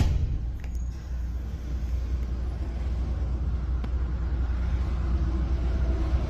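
A road vehicle running with a steady low rumble and road noise, with a short sharp click right at the start.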